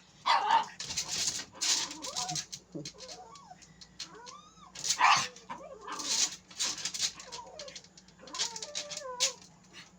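A pet monkey giving agitated alarm calls at a frog: a string of harsh, hissing screeches mixed with thin, high squealing glides.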